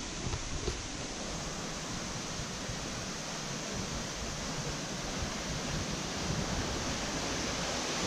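Steady rush of falling and flowing water from a small waterfall on the Afon Ffyddion, growing slightly louder near the end.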